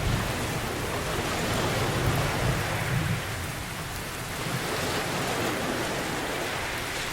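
Steady rain falling, with a low rumble of thunder rolling underneath that swells a second or two in and then fades back.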